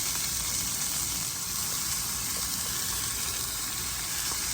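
Vegetables sizzling steadily in a frying pan.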